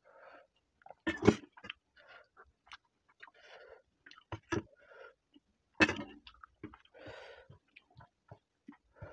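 Close-up eating sounds of rice and egg curry eaten by hand: irregular wet chewing and lip smacks, with a few louder sharp clicks, about a second in and again just before six seconds.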